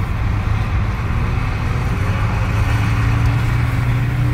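Car engine running at a steady drone while driving, with road noise; its note creeps slightly upward over the last couple of seconds.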